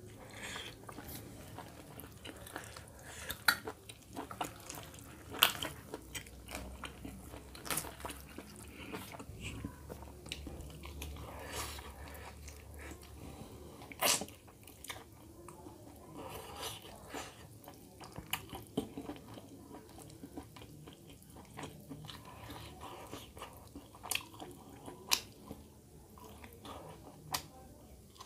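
A person chewing and biting into chicken curry eaten by hand, with irregular sharp mouth clicks; the loudest come a few seconds in and about halfway through.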